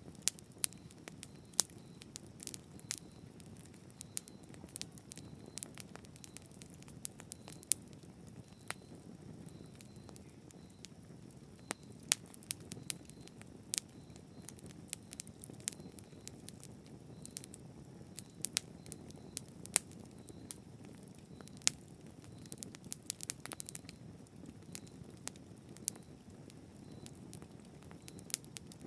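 Campfire burning steadily, with a low rumble under many sharp, irregular crackles and pops from the burning wood.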